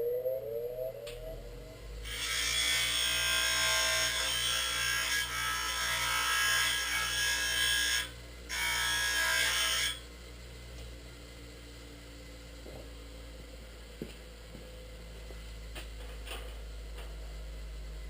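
Power tool working for about six seconds, stopping briefly and then running again for about a second and a half, followed by a low steady hum with a few faint clicks.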